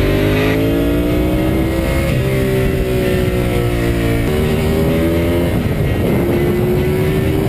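Ducati 748's 90-degree V-twin engine pulling under acceleration on the road, its note climbing for about two seconds and then changing pitch abruptly a few times as it shifts gear.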